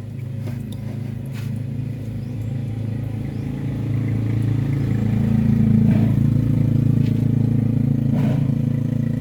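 A motor vehicle engine running steadily, growing louder about four seconds in, with a few light clicks and scrapes.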